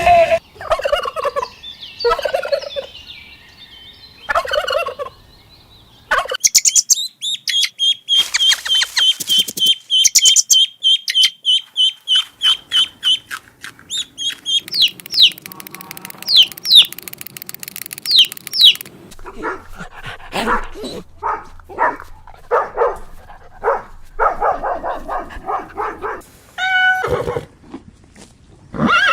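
A sequence of different bird calls. Short harsh calls come first, then a fast high trill of rapid notes, then quick sliding chirps, and then a long run of repeated calls.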